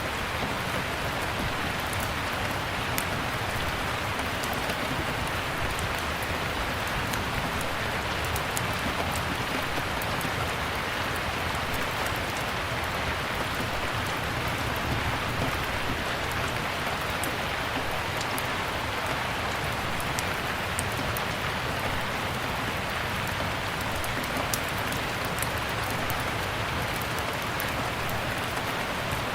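Steady rain, with scattered sharp crackles from a wood fire burning in a fireplace.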